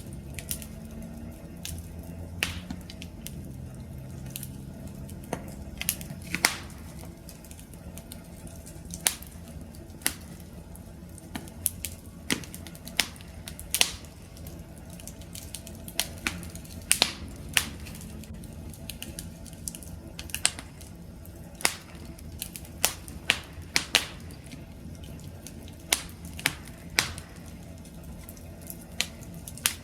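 Wood fire burning with a low steady rumble and irregular sharp crackles and pops, one or two a second.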